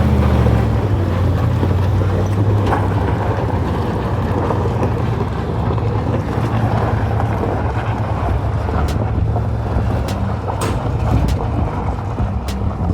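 Truck engine running with a steady low drone, with a few sharp clicks in the second half.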